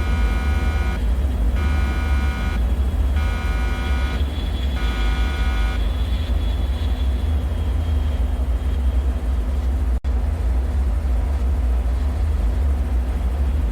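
Constant deep, low rumbling drone of a bunker ambience. Over it, a buzzing, alarm-like tone pulses on and off about every second and a half, four times, then stops about six seconds in.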